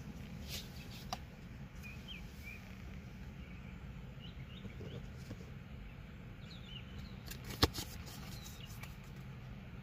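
Small birds chirping in short scattered calls over a steady low rumble, with a few sharp clicks, the loudest about three quarters of the way through.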